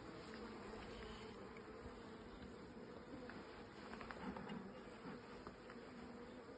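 A colony of honeybees of the native dark European subspecies (AMM) humming in an open hive, a faint, steady buzz, with a few faint clicks about halfway through.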